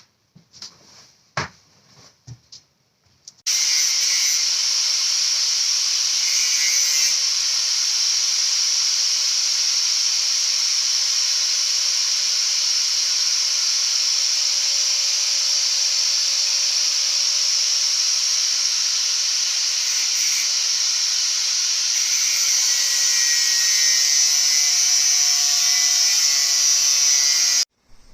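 A few light knocks, then a power tool working steel starts about three and a half seconds in and runs steadily with a loud hissing noise and a faint steady hum, cutting off suddenly near the end.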